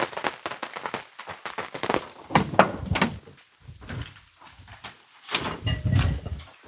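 Irregular clicks and knocks, with two heavier thuds, one about two and a half seconds in and one near the end.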